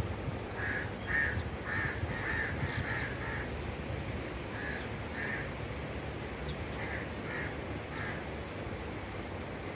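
Bird calls: a series of short calls in runs of several, about half a second apart, pausing and starting again, over a steady low background noise.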